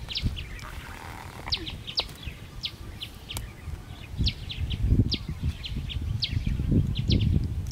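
Small birds chirping over and over in short, high chirps, a few a second in little clusters, over low rumbling noise that swells in bursts during the second half.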